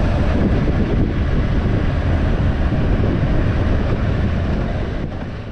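Steady wind rush and road noise from a moving motorcycle, with wind buffeting the microphone, fading out near the end.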